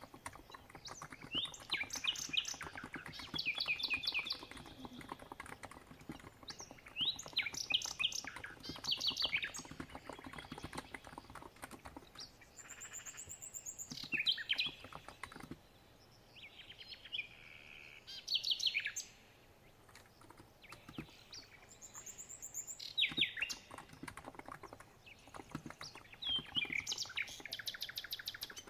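Birds singing, short trilled phrases every few seconds, over soft, steady typing on a COX Empress electro-capacitive keyboard.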